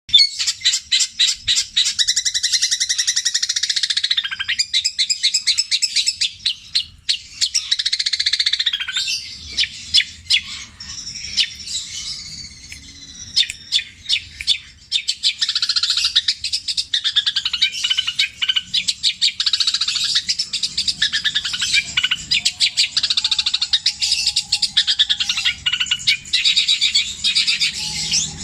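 Long-tailed shrike (cendet) singing a loud, fast, rattling stream of mimicked calls, including tree sparrow (greja) chatter, strung together and repeated over and over, with a sparser stretch near the middle.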